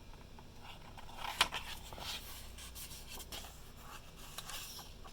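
Faint rustling and scraping of paper as a picture book's pages are handled and turned, with one sharper tap about a second and a half in.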